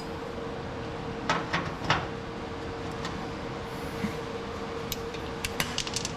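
A few sharp metallic clicks and clinks of hand tools, wrenches and sockets, handled in a few quick groups over a steady background hum.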